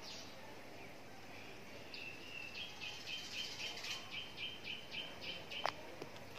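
A bird calling in the background: a run of short, same-pitched high chirps, about four a second, starting about two and a half seconds in and stopping shortly before the end. A single light click comes near the end.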